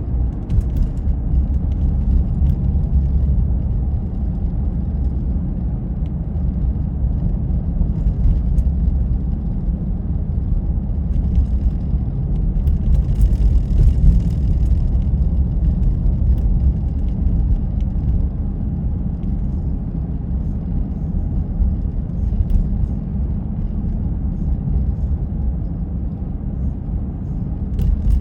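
Steady low rumble of a car driving, engine and road noise, swelling slightly with a little added hiss about halfway through.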